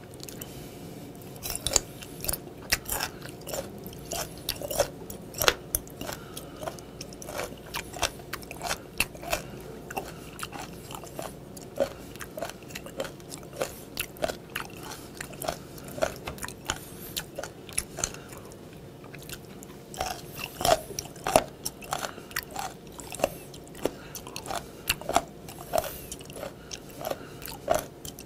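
Close-up crunching and chewing of fermented skate nose with its hard cartilage, a steady run of sharp crunches. They ease off briefly about two-thirds of the way through, then come back louder.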